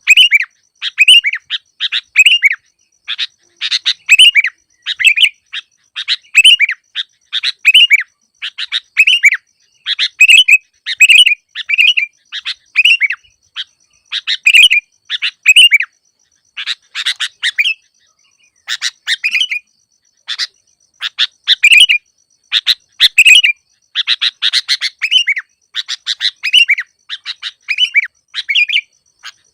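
Sooty-headed bulbul (kutilang) calls: short, quick chirpy phrases repeated about once a second, with a few brief pauses.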